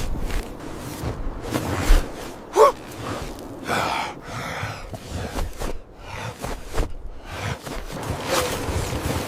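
A person gasping for breath, with short strained vocal sounds, the loudest sliding up in pitch about two and a half seconds in.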